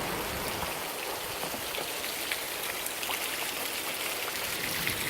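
Heavy rain in a downpour: a steady hiss with a dense patter of drops striking surfaces.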